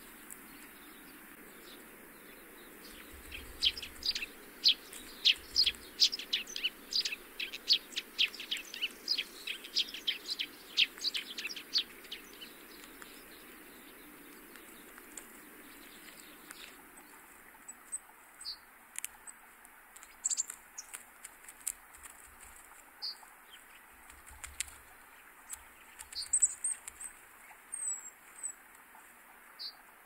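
Small birds calling: a fast run of sharp, high clicking notes for several seconds, then scattered short high chirps.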